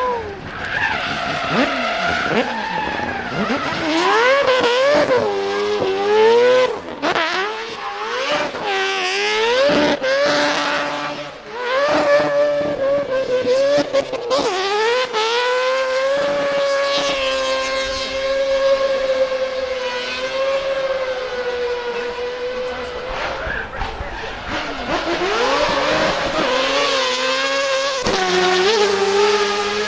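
Mazda RX drift car's engine revving hard, its pitch rising and falling repeatedly, then held near steady at high revs for several seconds mid-way before swinging again, with tyres squealing through the drift.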